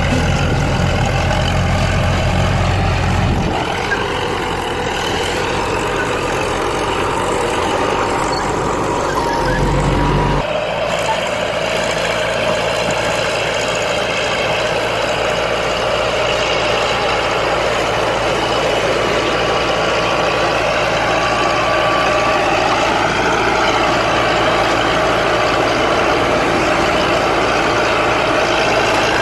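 Heavy diesel earth-moving machinery, bulldozers, running and working with a steady, loud mechanical din. A deep rumble cuts off abruptly about three and a half seconds in and again about ten seconds in.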